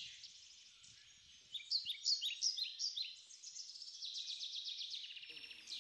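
Small songbirds singing: fast high trills, with a louder run of short falling notes in the middle.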